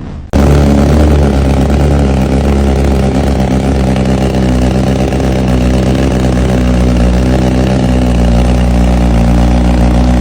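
Motorcycle engine running loudly at a steady speed, its pitch holding level throughout; it cuts in sharply just after the start.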